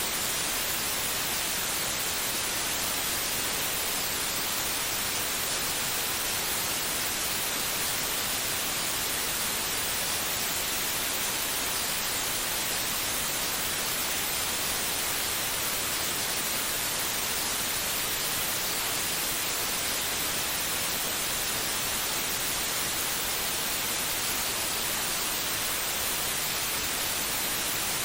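Steady white noise: an even, unchanging hiss, brightest in the treble, with no heartbeat or rhythm in it.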